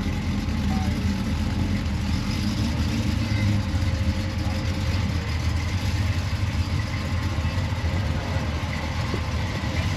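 A car engine idling steadily, a low rumble.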